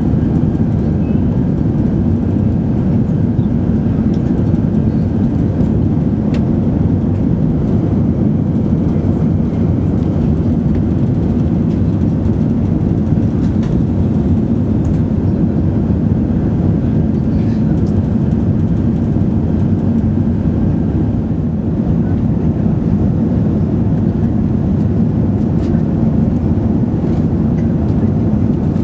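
Airbus A380 cabin noise in flight: a steady, low rumble and rush of air and engines that does not change.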